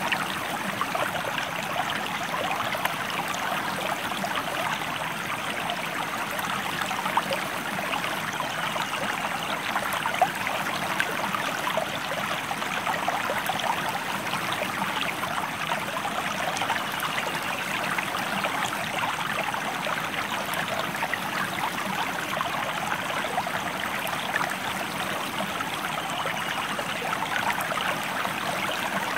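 River water flowing steadily: a constant rushing with many small splashes and gurgles running through it.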